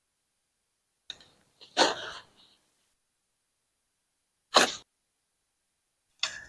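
A shovel digging into clay soil: a few short scraping crunches a second or more apart, with dead silence between them.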